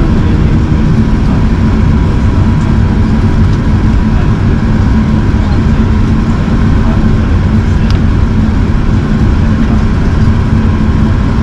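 Steady low rumble of airflow and engines inside the cabin of an Airbus A380 in flight, with a faint steady hum running through it.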